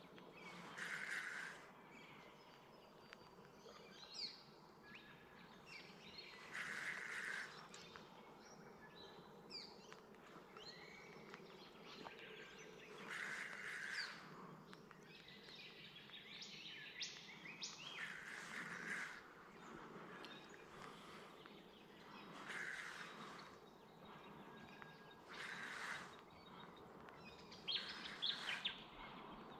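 Small birds chirping now and then over a faint outdoor background. A short noisy sound comes back every few seconds.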